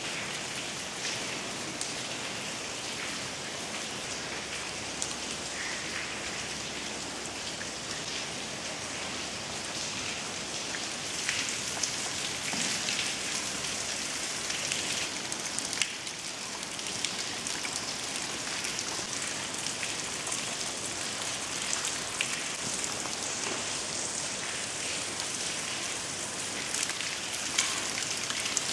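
Steady rain pattering, with many scattered sharper drop ticks, heard from inside a large derelict power-station hall.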